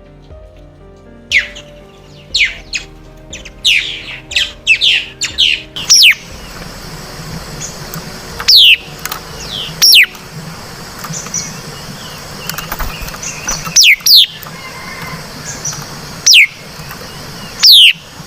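White-browed laughingthrush calling: loud, sharp down-slurred whistles, a quick run of them in the first six seconds, then single calls every one to four seconds. This is the flock-gathering call used as a lure.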